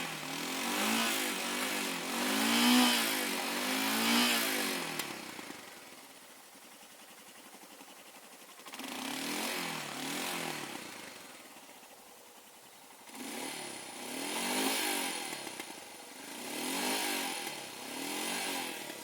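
Royal Enfield Himalayan's single-cylinder engine revved up and down in repeated blips, dropping back to a quieter idle between three bursts of revving. It is being run and revved to dry out water it took in when it stalled in deep water.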